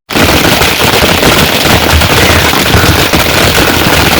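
Heavy rain pouring down: a loud, steady, dense patter of countless drop impacts.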